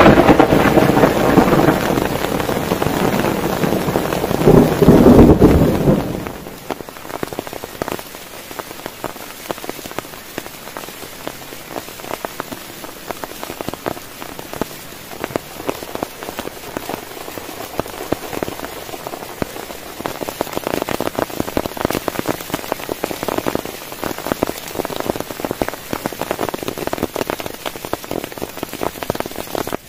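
A long roll of thunder over heavy rain, loudest about five seconds in and dying away at about six seconds. The heavy rain then goes on alone as a dense patter of drops on a surface, swelling again in the second half.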